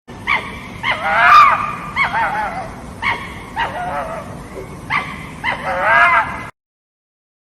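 An animal's calls: a series of about seven short, sharp yelps, each trailing into a whining, pitch-bending tail, over steady background hiss; they cut off abruptly near the end.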